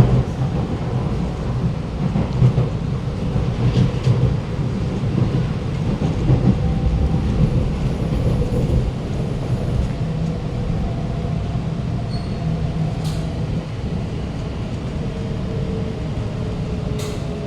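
Interior running noise of an Alstom Movia R151 metro car: a steady low rumble with a few sharp clicks from the track. Over the last few seconds a faint tone falls slowly in pitch.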